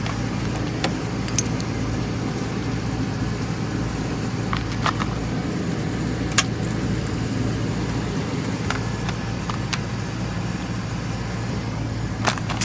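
GMC Sierra's 5.3-litre V8 idling steadily after a cold start, as a low, even hum, with a scattering of short sharp clicks over it.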